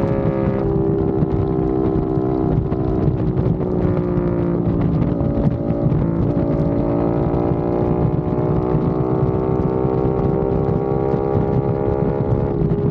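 Aprilia RS660 Factory's parallel-twin engine running steadily through a non-resonated Mivv XM-1 Evo exhaust, a deep, bassy note. Its pitch dips slightly and then rises again, with some wind on the microphone.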